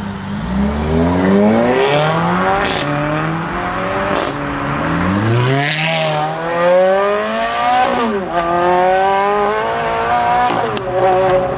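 High-performance car engine accelerating hard through several gears, its pitch climbing in each gear and dropping at each upshift. There are a few sharp cracks at some of the shifts.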